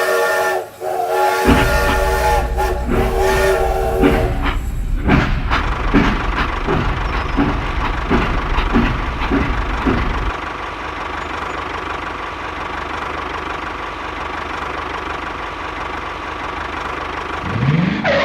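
A whistle sounding a chord of steady tones, twice in the first four seconds. Then a rhythmic chugging that fades out at about ten seconds, over a steady hissing rush.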